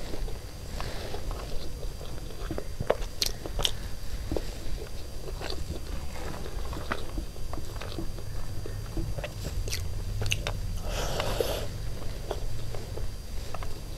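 Close-miked chewing of chicken biryani, with wet mouth clicks and lip smacks scattered through, over a steady low room hum. A short breathy noise comes about eleven seconds in.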